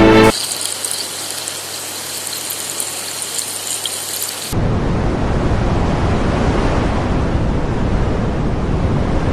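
Rain: a fairly quiet, steady patter with a fine high hiss, then an abrupt cut about four seconds in to heavier, louder rain.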